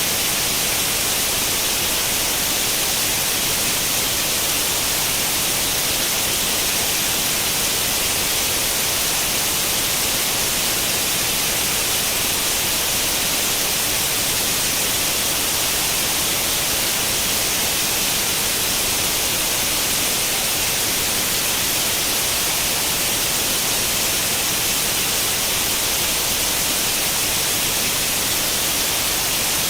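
Television static: the steady hiss of an old CRT set tuned to no channel, strongest in the high frequencies and unchanging throughout.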